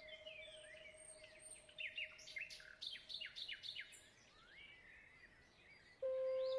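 Small birds chirping and twittering in quick, rising and falling calls over a soft held musical note, which fades away. A new, louder held note comes in near the end.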